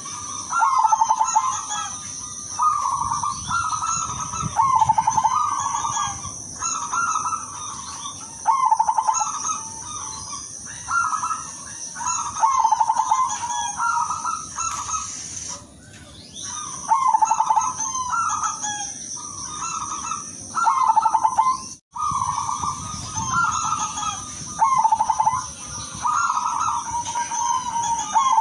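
Silver perkutut (zebra dove) cooing: rolling, repeated coo phrases about every two seconds, with a short lull about halfway through.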